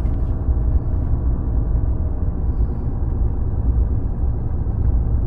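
Ram 2500's Cummins inline-six turbodiesel and its tyres running steadily through deep snow: a continuous low rumble.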